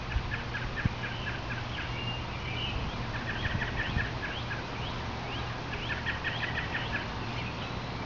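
Small songbirds chirping in quick series of short, repeated notes, over a steady low background hum.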